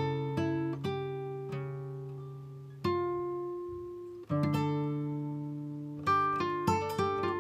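Background music: slow plucked acoustic guitar notes that ring and die away, with new notes struck about three seconds in and again a little after four seconds, and quicker picking near the end.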